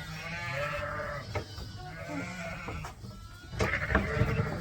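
A group of sheep bleating, several calls overlapping, with a louder burst of bleats and clatter near the end.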